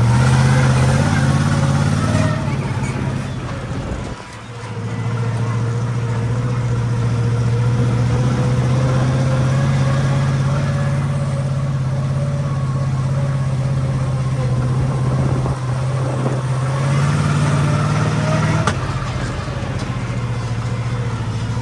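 Monster ride truck's engine running at a steady pitch, dropping off briefly about four seconds in, then picking back up and holding, with a slight lift and a sharp knock near the end.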